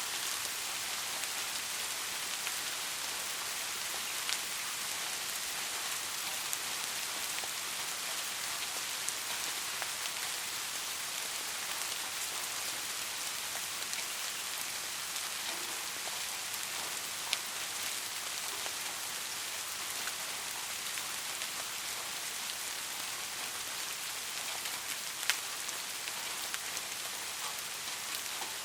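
Steady rain falling, an even hiss with a few louder single drops ticking now and then; no thunder is heard.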